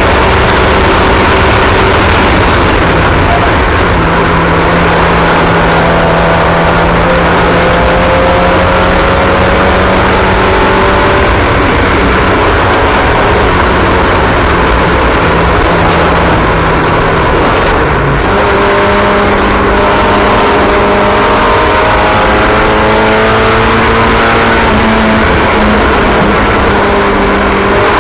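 Several small racing engines running at once, their overlapping tones rising and falling as the cars lap the track.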